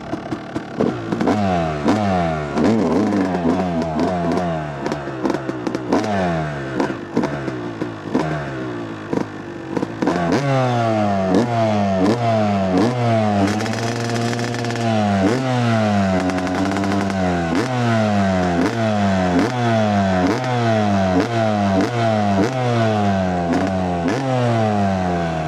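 Two-stroke dirt bike engine, a 2008 Yamaha YZ250, revving up and dropping back again and again as it is ridden. Clattering knocks run through the first ten seconds, and there is one longer held rev about halfway.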